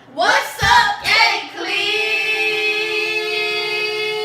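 A young female voice singing: two short phrases that bend in pitch, then one long held note.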